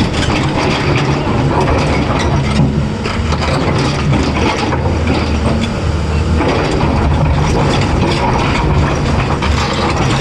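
Caterpillar 336 hydraulic excavator's diesel engine running steadily under load, with continuous irregular metallic clattering and rattling over it.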